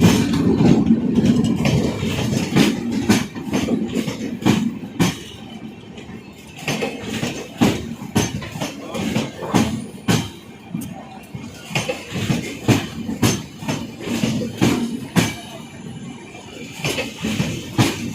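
Coaches of an arriving express train rolling past at low speed, the wheels clacking over rail joints in an irregular run of sharp knocks, over a rumble that is heaviest at the start.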